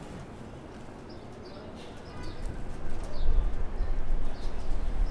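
Birds chirping with short, high, repeated calls. About two seconds in, a loud, uneven low rumble comes in and becomes the loudest sound.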